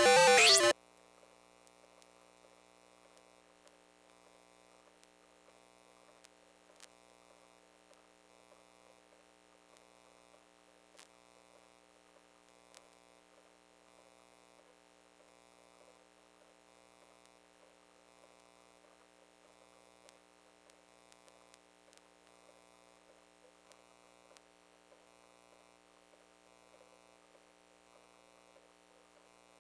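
A loud electronic sound with a wavering pitch cuts off under a second in. Then comes a faint, steady electrical hum with a few light ticks.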